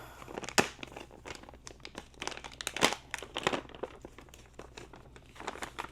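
Packaging being crinkled and rustled by hand while unwrapping new motorcycle brake and clutch levers, with a few sharp clicks and crackles among the rustling.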